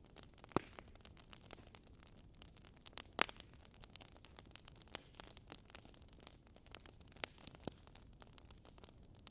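Wood fire crackling: irregular sharp pops and snaps over a faint steady hiss, the loudest pop about three seconds in.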